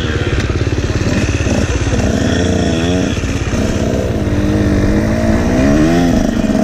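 Husqvarna TC125 125cc two-stroke single-cylinder motocross engine running, its revs rising and falling twice, about halfway through and near the end.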